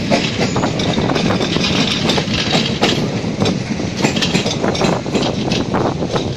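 Train running along the track, heard from inside a coach: a steady rolling rattle of wheels on rail, with frequent irregular clicks and knocks.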